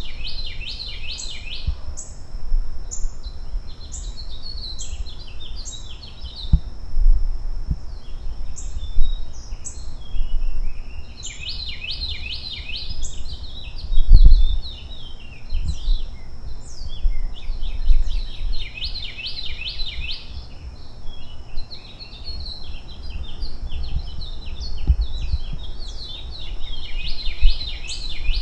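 Small birds chirping in repeated bouts of rapid chattering, with a steady thin high tone above them. Underneath runs a low rumble with a few thumps, the loudest about fourteen seconds in.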